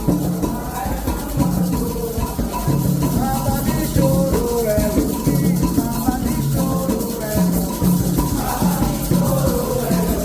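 Candomblé ritual music: hand drums playing a steady repeating beat with a shaken rattle, under melodic singing.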